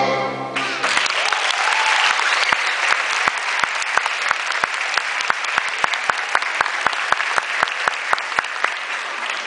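Orchestral music cuts off within the first second and a theatre audience breaks into applause. From about two and a half seconds in, sharp claps stand out from the crowd at an even rhythm of about three a second.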